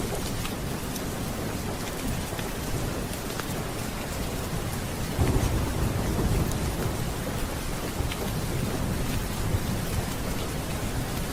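Steady rain with a low roll of thunder that swells up about halfway through. Scattered sharp drips tick over the rain.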